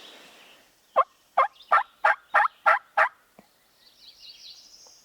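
A turkey yelping: a series of seven loud, evenly spaced yelps at about three a second, ending abruptly.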